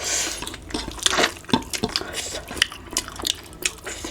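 Cutlery clicking and scraping against a plate during a meal, a run of sharp clinks and short scrapes.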